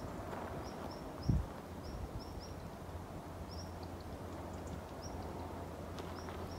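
A small bird chirping: short, high notes repeated at irregular intervals, sometimes two or three close together. Under it runs a steady low rumble, and a single low thump comes about a second in.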